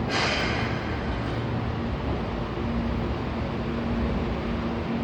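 Steady running noise of a Keihan electric train, heard from inside the car: a low rumble, with a faint steady hum coming in about halfway through.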